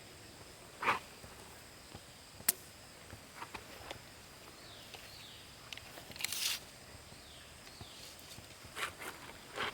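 Quiet outdoor ambience: a steady high-pitched insect drone, with a bird's short falling calls repeating in pairs every few seconds. Scattered sharp clicks and knocks break in, the loudest about a second in and at two and a half seconds, with a longer scuffing burst around six seconds.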